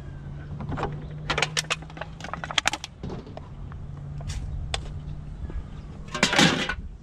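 Quick clicks, knocks and rattles from handling a piece of curbside scrap, with a steady low hum behind them and a louder scraping rustle near the end.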